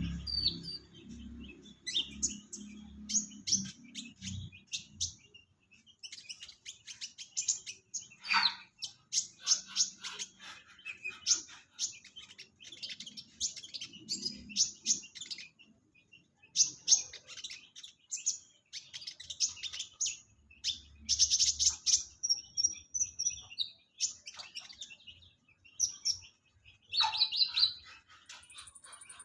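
Kolibri ninja sunbird calling: rapid, high-pitched chirps and twitters in quick bursts, broken by short pauses.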